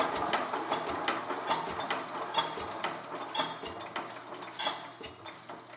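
1930s Stover 10 hp single-cylinder diesel engine running roughly, a series of knocking beats over a low hum. The beats spread out and fade, as if the engine is slowing. The owner thinks it is firing only off the punk, and a valve leaks compression badly.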